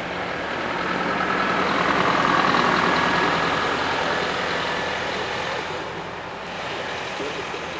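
A heavy vehicle passing by. Its engine and tyre noise swells to a peak two to three seconds in, then fades away.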